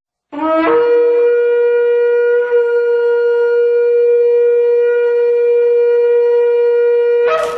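A shofar blown in one long blast: a short lower note jumps up at once to a steady held tone lasting about seven seconds, with a slight waver about two seconds in.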